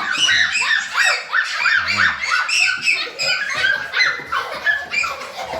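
A captured bird calling continuously: a rapid run of short chirps, several each second.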